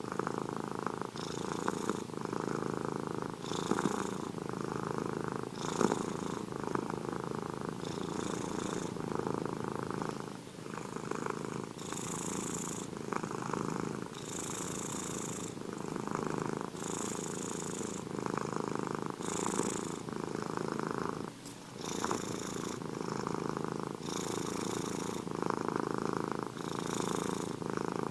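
Domestic cat purring steadily and close up, with a breathier hiss coming and going every second or two and a brief break about three quarters of the way through.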